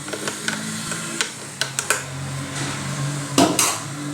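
Kitchen dishes and utensils being handled, with scattered clinks and knocks and a louder clatter near the end, over a low steady hum.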